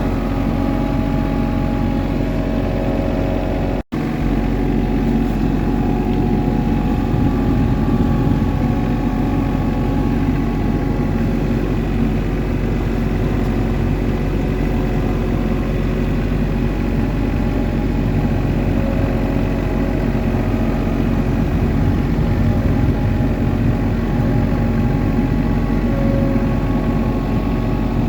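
Farm tractor engine running steadily while pushing through deep snow. The sound cuts out for an instant about four seconds in.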